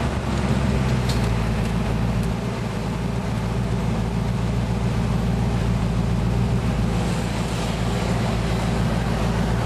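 Factory Five Racing roadster's V8 running at low, steady revs, heard from the open cockpit over wind and road noise.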